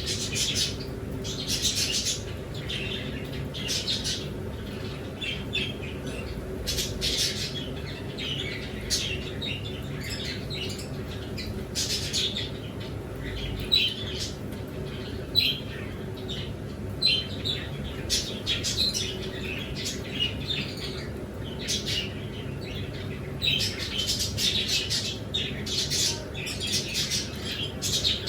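Several birds calling over and over in short, sharp chirps, some louder peaks around 2, 7, 15 and 24 seconds in, over a steady low hum.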